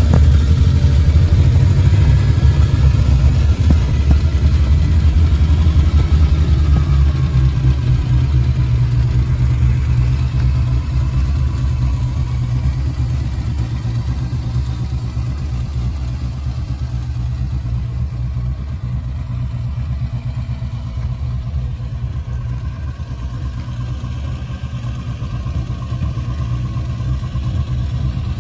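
Ferrari Dino 246 GT's 2.4-litre V6 idling steadily through its quad exhaust, slowly growing quieter.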